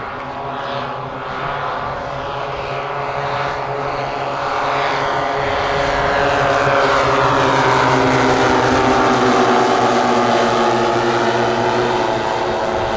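Propeller engines of a large radio-controlled model warbird flying past, a steady multi-tone drone that grows louder to a peak about two-thirds of the way through, then eases as its pitch drops slightly.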